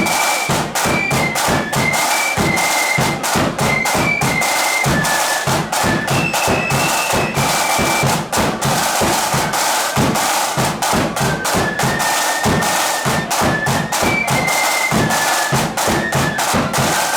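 Flute band playing a march tune: massed flutes carrying a high, stepping melody over busy, rapid drumming.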